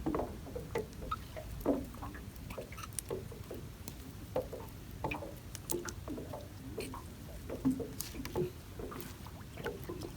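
Irregular small splashes, drips and knocks of water as a gill net is pulled in by hand and checked for fish.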